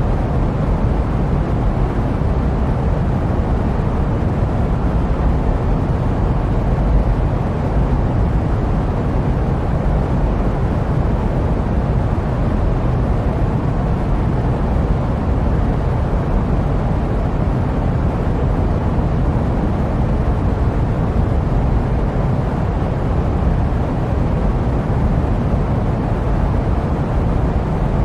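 Jet aircraft noise used as white noise: a steady, deep, even rumble that never changes.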